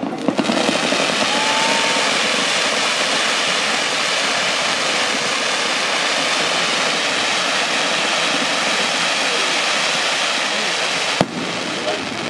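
Fireworks fountains and crackling stars going off together: a dense, steady hiss and crackle for about eleven seconds. Near the end a single sharp bang cuts in, and after it the sound is quieter.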